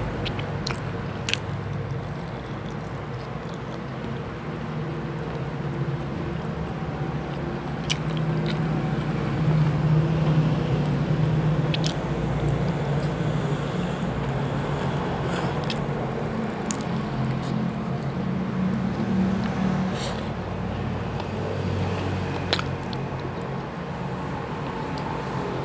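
Close-miked chewing and biting of chicken adobo with rice, with scattered sharp clicks and smacks of the mouth. A steady low hum runs underneath.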